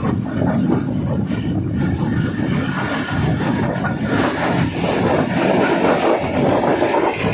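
Green Line Express passenger train running along the line, heard from an open carriage door: a steady, loud rumble of the coach's wheels on the rails.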